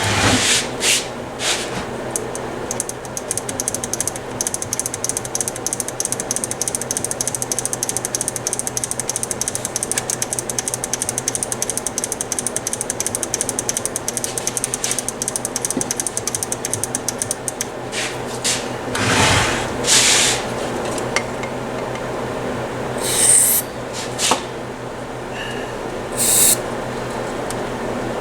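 Stereo receiver switches being worked rapidly back and forth, a fast rattling clicking for about fifteen seconds, followed by several short hisses of contact cleaner spray as the switches are cleaned.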